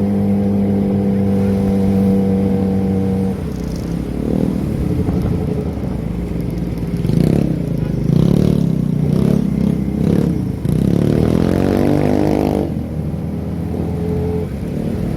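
Kawasaki ZX-25R's inline-four engine through a Prospeed aftermarket exhaust, running at a steady note, then varying under the throttle, with a rising pitch as it accelerates about eleven seconds in. The note drops suddenly near the end and settles back to steady.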